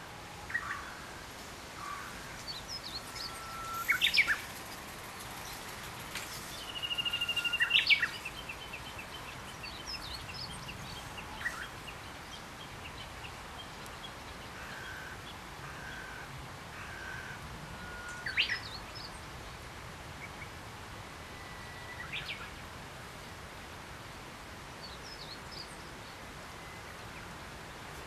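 Wild songbirds calling along a riverbank: scattered short chirps and whistles over a steady background hiss, with louder sharp calls about four seconds in and again near eighteen seconds, and a loud buzzy rattling call around seven to eight seconds in.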